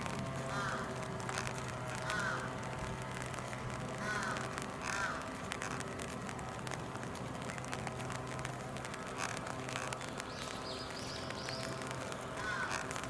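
Crow cawing: a run of short, harsh caws in the first five seconds, then another caw near the end.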